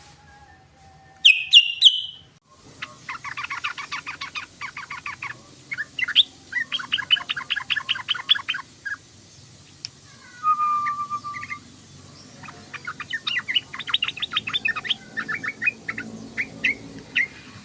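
Yellow-vented bulbul (trucukan) calling and chattering. Three loud, sharp notes come in quick succession about a second in, followed by long bursts of fast, rattling chatter, with a short, lower whistle about ten seconds in.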